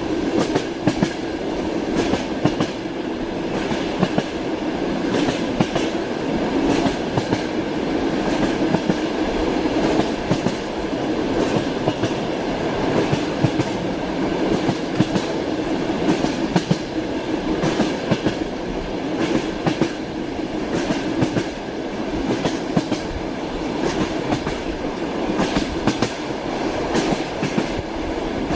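Moving train heard from inside a carriage: a steady rumble with the clickety-clack of the wheels over the rail joints, sharp clicks coming often in pairs.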